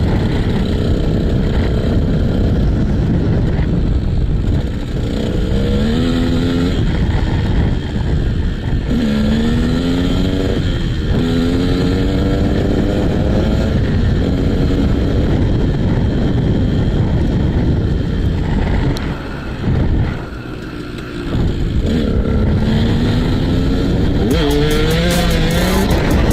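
KTM SX 125 two-stroke single-cylinder motocross engine revving as the bike is ridden hard off-road, its pitch climbing again and again as the throttle is opened, over a steady rushing noise. About three-quarters of the way through the engine drops off briefly before picking up again.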